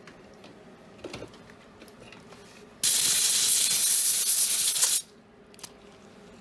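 Dental air/water syringe blowing a burst of air for about two seconds, starting suddenly about three seconds in, with a few small clicks of hand instruments before it.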